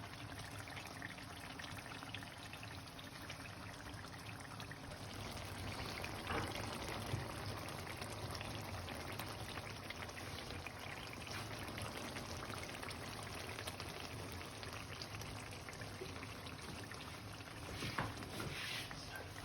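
Chicken karahi cooking in oil in the karahi pan, a steady sizzling and bubbling hiss, with a couple of brief sharper clicks near the end.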